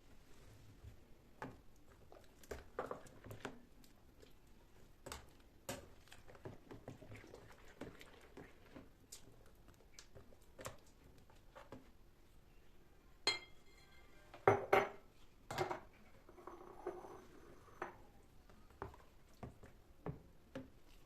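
Kitchen dishes and utensils clinking and knocking as food is prepared: scattered light clicks, a ringing clink about 13 seconds in, and a cluster of louder knocks soon after.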